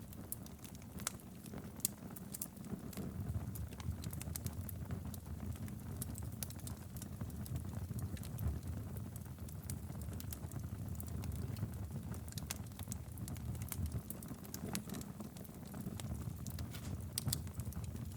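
A wood fire burning steadily in a fireplace, with a low rumble of flames and many quick, irregular crackles and pops throughout.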